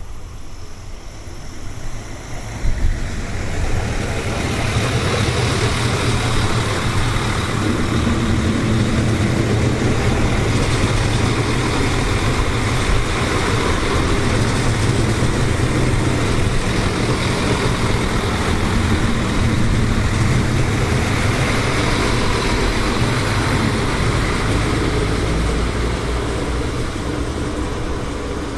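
A train passing on the line. Its rumble and rolling noise build over the first few seconds, then hold loud and steady with a deep hum, easing off a little near the end.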